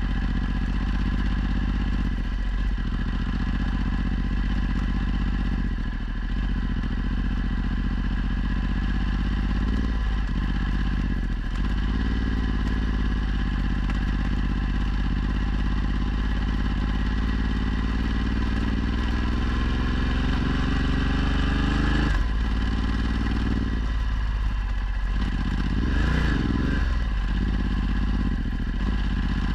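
Ducati Multistrada 1260's V-twin engine through a Termignoni exhaust, running under way. The revs dip briefly a few times, then climb steadily for about ten seconds and drop sharply, as at an upshift, and vary again near the end.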